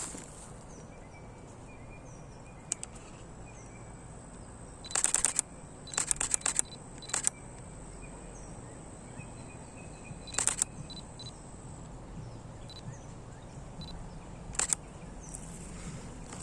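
Camera shutter firing in rapid bursts of continuous shooting: a quick run of clicks about five seconds in and another about a second later, with single frames or short bursts scattered before and after.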